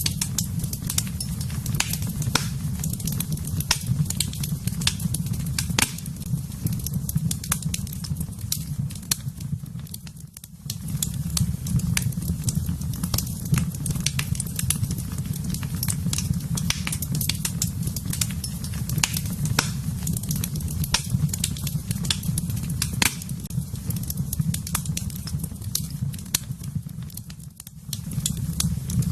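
Wood fire in a fireplace crackling and popping, with many sharp irregular snaps over a steady low rumble. The rumble dips briefly twice, about ten seconds in and again near the end.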